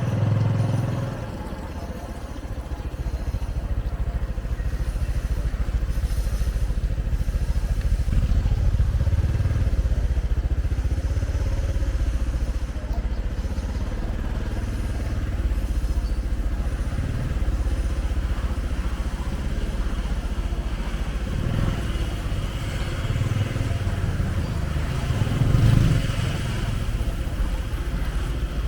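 Motorbike engines and road traffic: a continuous low rumble that swells a few times, loudest near the end.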